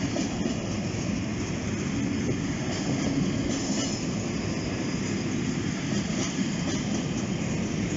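Freight train of flat wagons rolling steadily past: a continuous rumble of steel wheels on the rails with faint clicks scattered through it.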